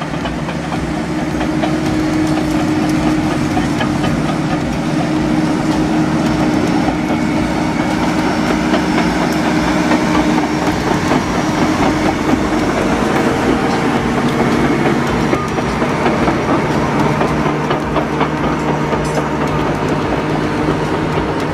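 Bulldozer's diesel engine running steadily under work, with a continuous clatter of its steel tracks.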